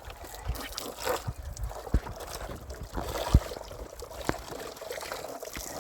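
Water sloshing and trickling during washing, with a few sharp knocks in between.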